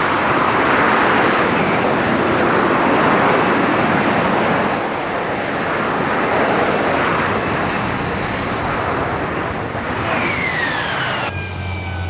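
Harrier jump jet's Pegasus engine running at full power in hover: a loud, even rushing jet noise. Near the end a falling whine comes in. Then the sound cuts to a steady low hum with a few held tones.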